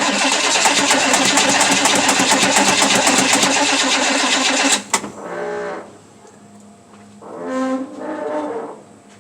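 Chevy 383 stroker small-block V8 being cranked over by its starter on a cold start, a loud rapid chatter that stops abruptly after about five seconds without the engine running on. Two short pitched sounds follow, each lasting about a second.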